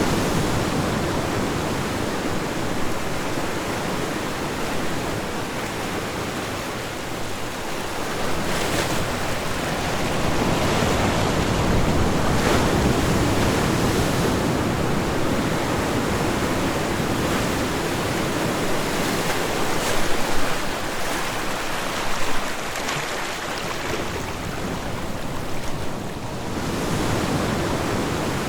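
Ocean waves washing onto a shore: a continuous rush of surf that swells and ebbs over several seconds, with a couple of brief louder crashes about two-thirds of the way through.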